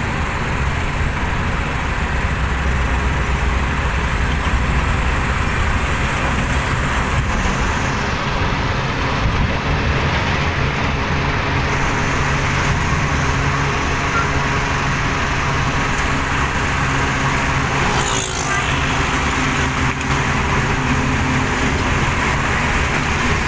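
Diesel engine of a loaded Mercedes-Benz NG 2435 truck running steadily under load while cruising, with road and tyre noise. There is a brief dip and shift in the engine sound about three-quarters of the way through.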